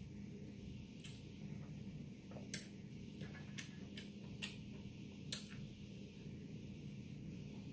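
Close-miked mouth sounds of someone chewing food: a handful of sharp, irregular lip smacks and wet clicks, stopping after about five seconds, over a low steady hum.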